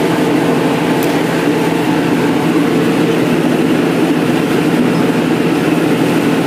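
Diesel passenger train running steadily along the track: continuous rumble of wheels on rail with a low, even hum.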